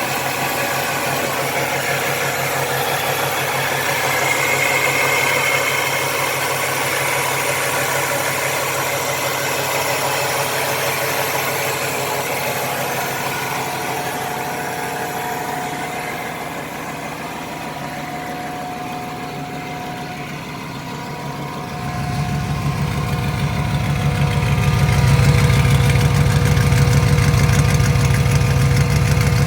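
Rebuilt 350 Vortec small-block V8 idling steadily. About 22 seconds in, its low rumble suddenly gets louder and stays that way.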